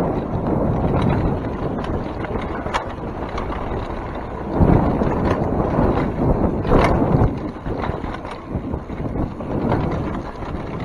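Mountain bike riding down a trail: wind buffeting the microphone in surges, with scattered clicks and knocks from the bike over rough ground.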